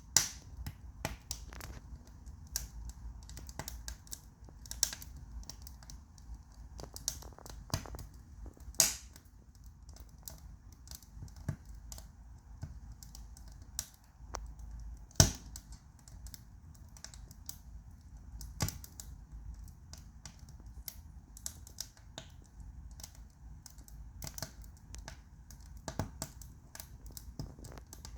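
Wood fire burning in a fireplace: irregular crackles and pops, with a few louder snaps around 9 and 15 seconds in, over a low rumble.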